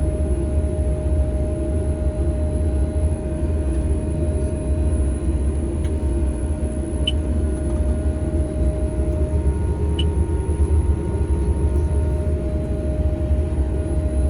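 Steady low engine-and-machinery drone of a working potato harvester heard inside its cab, an aeroplane-like hum with no radio on. A faint higher whine in it stops about two-thirds of the way through.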